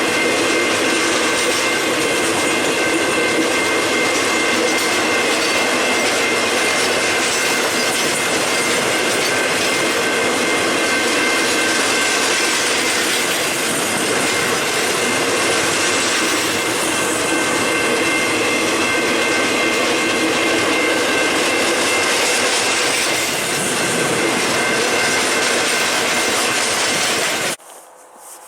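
A long freight train's cars rolling past: steady wheel-and-rail noise with some clatter, and a high, steady wheel squeal. It cuts off suddenly just before the end.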